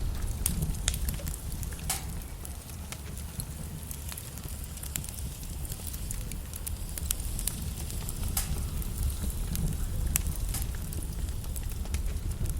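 Logs burning in a fireplace: frequent, irregular crackles and sharp pops over a steady low rumble of the flames.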